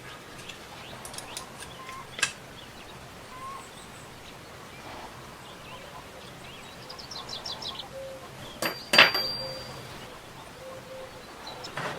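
Birds chirping faintly over a steady background hiss, with a quick run of high chirps about seven seconds in. A sharp click comes about two seconds in and a louder sharp knock about nine seconds in.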